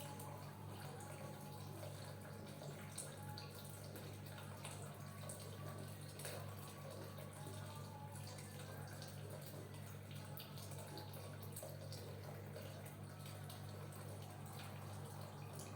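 Faint wet, slick sounds of oiled hands pressing and rubbing over skin in circular compressions, with light scattered clicks. A steady low hum runs underneath.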